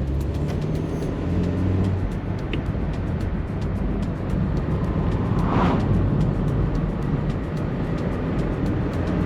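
Peugeot 306's 1.6-litre eight-valve petrol engine running under way, its pitch climbing as it revs up. There is a brief rushing sound about five and a half seconds in.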